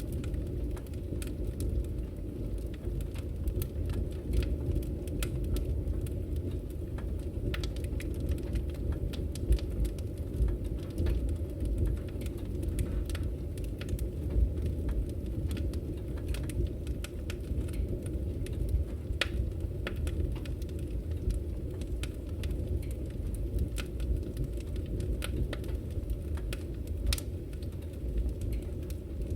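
Wood fire in a fireplace crackling: irregular sharp snaps and pops of burning firewood over a steady low rumble of the flames.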